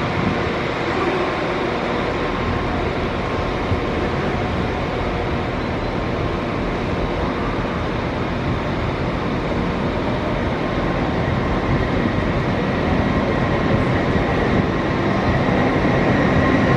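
A train running through a railway station: a steady rumble and hiss that grows a little louder near the end.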